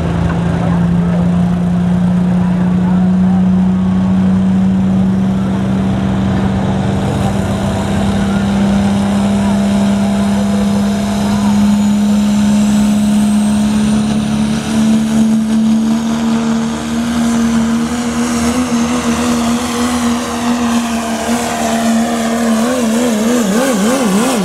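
Turbocharged diesel pickup truck engine held at high revs while pulling the sled, its note climbing slowly. Near the end the pitch wobbles rapidly up and down as the truck bounces, costing it distance.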